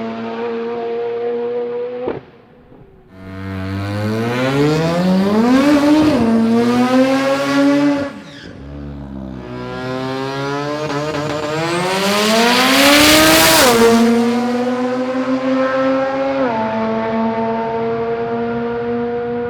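Turbocharged Mazda rotary engine of a drag car, revving hard. Its note climbs in rising sweeps and drops back sharply as it shifts. The loudest run comes about 13 s in with a rushing hiss, and the engine then settles to a steadier, lower note.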